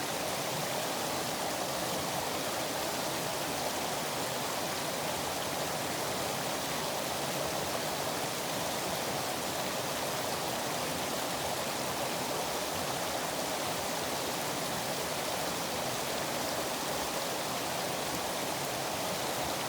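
River water flowing, a steady, even wash of water noise that does not change.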